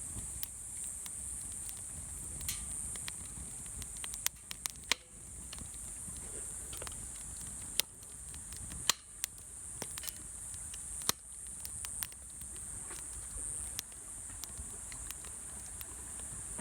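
Wood campfire crackling, with irregular sharp pops and snaps over a steady high hiss and a low rumble.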